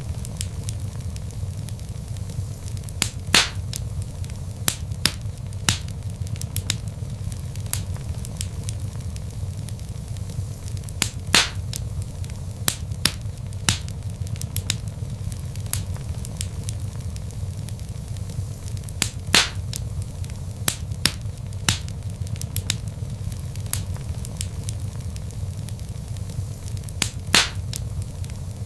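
Log fire crackling in a fireplace: a steady low rumble of burning with scattered sharp crackles, and a louder pop about every eight seconds.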